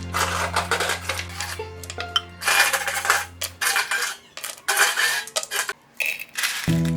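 Background music with repeated sharp clinking and clattering of hard objects knocking together.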